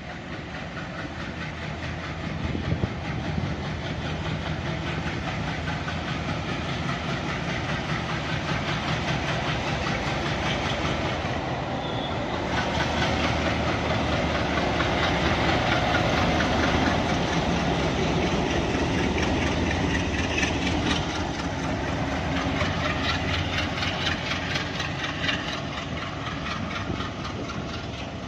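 Alco WDG3A diesel locomotive's 16-cylinder ALCO 251 engine running under load as the train pulls out, growing louder to a peak just past the middle and then fading.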